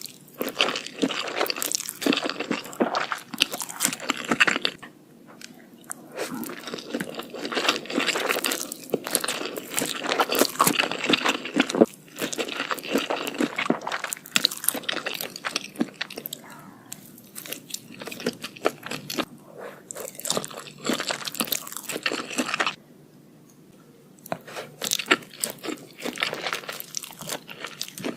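Close-miked biting and chewing of crunchy food: dense, crisp crackling crunches in runs, with short pauses between them.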